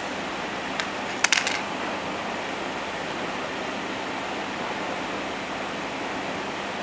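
Steady hiss, with a small hard object clicking once and then clinking several times in quick succession about a second in.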